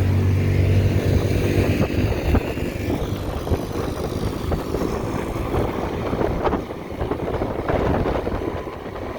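Small gas motorbike engine droning steadily close by, fading out about a second in. After that, wind buffets the microphone at riding speed.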